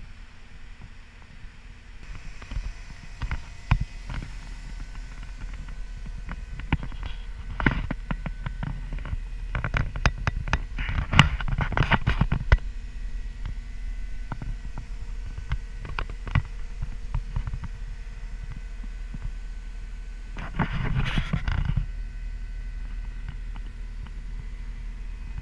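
CAT 242D skid steer's diesel engine running steadily with a low hum. Bursts of knocking and rattling come and go through the first half, and once more briefly later on.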